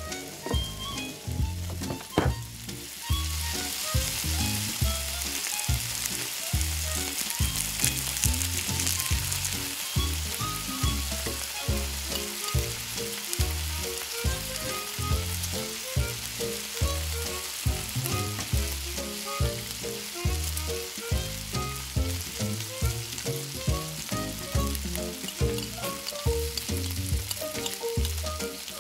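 Minced beef with chopped tomato and onion frying and sizzling in a tiny metal pan, being stirred with a fork. The sizzle comes up about three seconds in, just after a sharp click. A steady low beat runs underneath.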